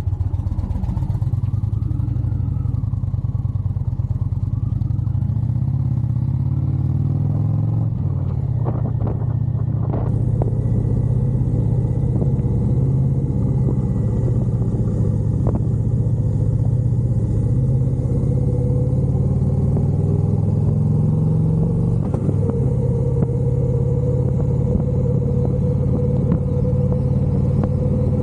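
Motorcycle engine running steadily at a fairly constant speed, with a few sharp clicks about eight to ten seconds in.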